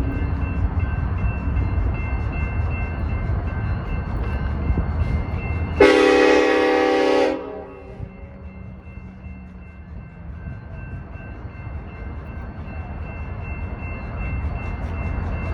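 Diesel freight locomotive horn sounding one loud chord blast of about a second and a half, about six seconds in, with a steady low rumble of the train before it. After the blast the rumble is quieter and slowly swells again toward the end.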